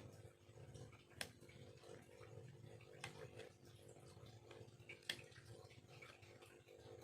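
Near silence with a low steady hum, broken by a few faint, sharp ticks (about three, a second or two apart) from a carving knife working bamboo.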